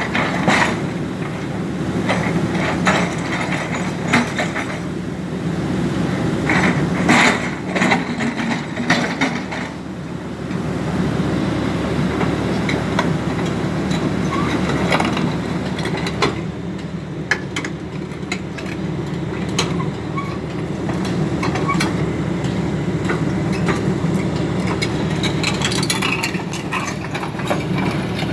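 Caterpillar 320D hydraulic excavator's diesel engine running steadily under work, with repeated metallic clanks and knocks through the first ten seconds or so and a few more later.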